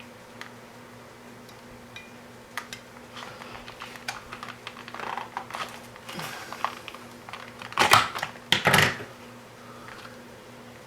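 Light clicks and rustles of small parts and wire being handled at a workbench, with two louder clatters near the end, over a faint steady hum.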